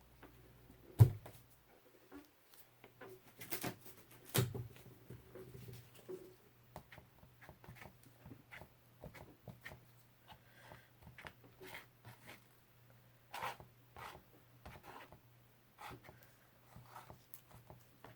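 Scattered small clicks and knocks of paint cups and bottles being handled and set down on a table, with a sharper knock about a second in and another about four seconds in.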